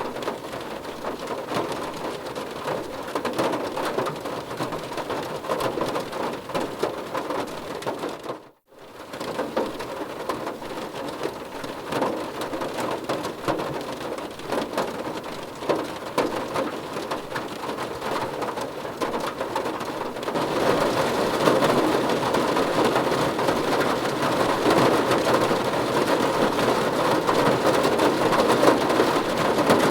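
Rain falling on a car's roof and glass, heard from inside the car as a steady, dense patter. It cuts out for a moment about a third of the way through, then gets heavier and louder about two-thirds of the way in.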